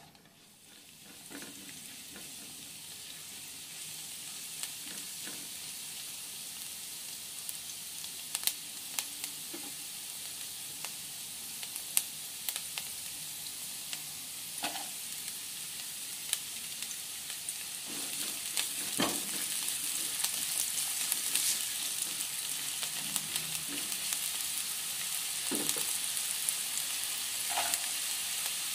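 Minced garlic and diced onion sizzling in hot oil in a nonstick wok, stirred with a spatula. The sizzle builds up over the first few seconds and gets louder again about two-thirds of the way in, with scattered light taps and scrapes of the spatula against the pan.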